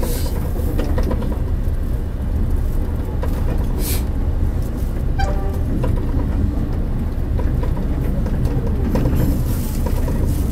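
Diesel railcar running along the track, heard from inside the front car: a steady low engine and running-gear rumble with occasional clicks and knocks from the wheels on the rails.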